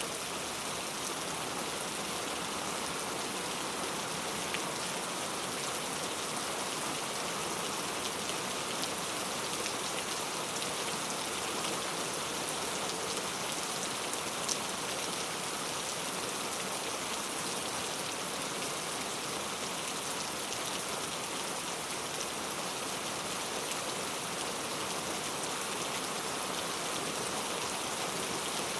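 Heavy rain falling steadily and pattering on hard surfaces, with occasional sharper drop ticks.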